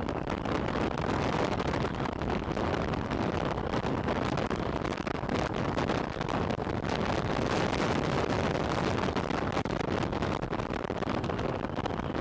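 Steady wind rushing over a microphone placed on a motorcycle helmet's chin area, with the visor open while riding at speed.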